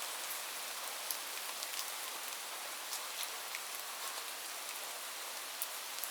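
Steady rain falling as an even hiss, with individual drops ticking sharply here and there.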